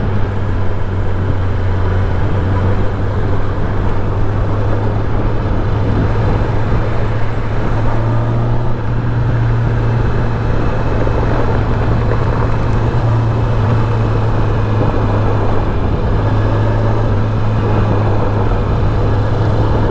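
Kawasaki ZX-10R's inline-four engine running at a steady cruise with wind rush, heard onboard while riding. The engine note holds fairly steady, lifting a little about eight seconds in.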